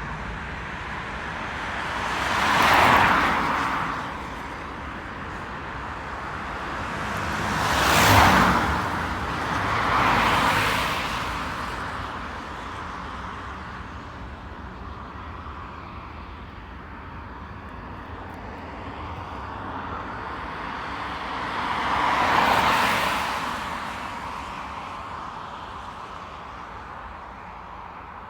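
Road vehicles passing close by one after another. Each is a whoosh of tyre and engine noise that swells and fades within a couple of seconds: three come in the first half, then a fourth after a long gap, over a steady low rumble.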